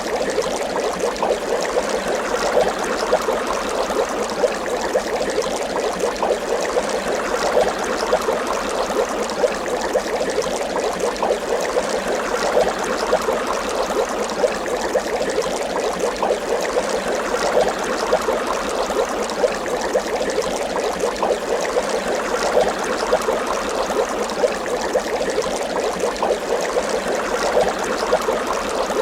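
Water bubbling steadily: a continuous dense stream of small bubbles popping and gurgling, with no pause or change.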